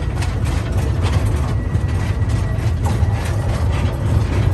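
Tour train running, heard from on board: a steady low engine rumble with irregular clicks and rattles of the cars.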